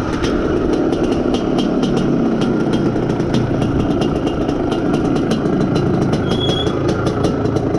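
IZh Planeta Sport motorcycle's two-stroke single-cylinder engine running steadily as the bike is ridden, with frequent short sharp clicks over the engine sound.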